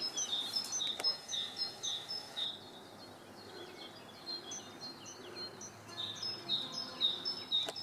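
A songbird calling in two bouts of short, high chirps, a little over two a second, with a sharp click near the end.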